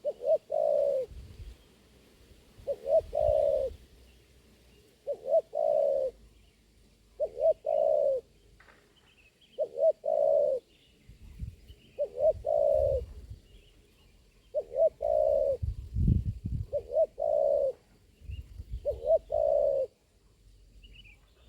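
Spotted dove (tekukur) cooing: the same phrase, a quick double note and then a longer falling coo, repeats nine times at an even pace of about one every two seconds. A brief low rumble comes about two-thirds of the way through.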